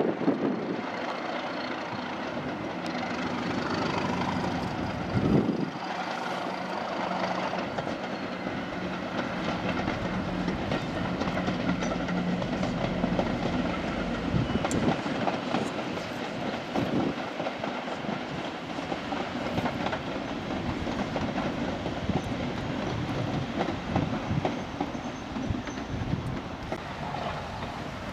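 Heritage diesel locomotive running with a train, a steady engine note through the first half, then the continuous rumble and clatter of the train on the line.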